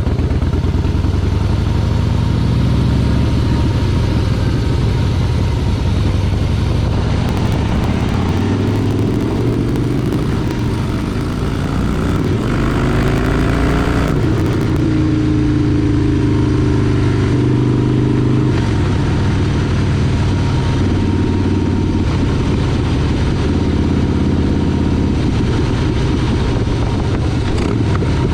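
Motorcycle engine running while riding, its pitch climbing and falling with the throttle, highest about halfway through.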